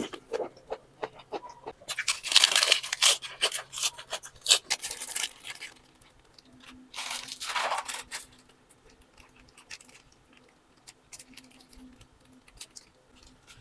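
Crisp crunching and tearing of fresh raw vegetables, in two bursts: a long one about two seconds in and a shorter one about seven seconds in, with scattered small clicks between.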